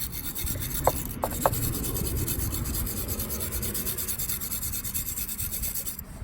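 Hand-held wire brush scrubbing stripped paint off the side of a die-cast model car body, a steady scratchy rasping with three short sharp ticks about a second in. The brushing stops just before the end.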